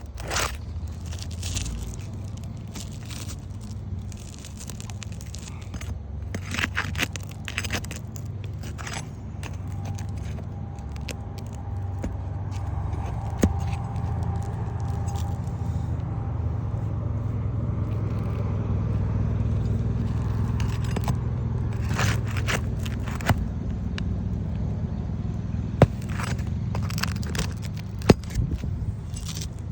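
Scraping and sharp clicks of a tool working shingles and nails loose on an old asphalt-shingle roof, over a steady low rumble.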